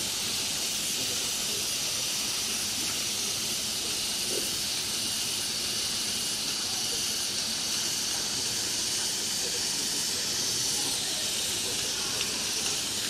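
Chicken satay skewers sizzling on a grill after being dipped in sauce: a steady hiss with a few faint ticks.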